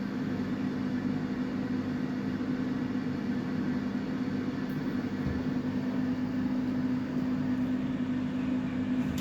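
Samsung WF806U4SAGD front-loading washing machine running a hot 95 °C cotton cycle for drum cleaning, giving a steady low hum over a wash of mechanical noise.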